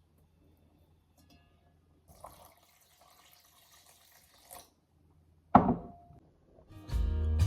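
Water running in a thin stream for about two and a half seconds, then a single sharp knock about five and a half seconds in. Background music comes in near the end.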